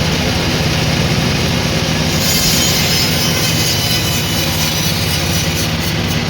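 Sawmill machinery running with a steady low drone. A high-pitched squeal joins about two seconds in and carries on.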